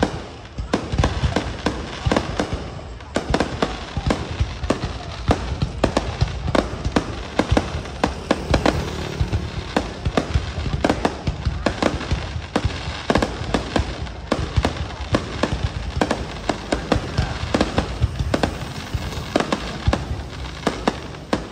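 Fireworks display: a dense, continuous barrage of bangs and crackles, several reports a second over a low rumble, after a brief lull just at the start.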